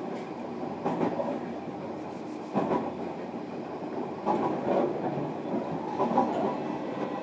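JR Kyushu 305 series electric train running, heard from inside a motor car: a steady rumble of wheels on rail, with sharp clacks from the wheels passing over rail joints at irregular intervals.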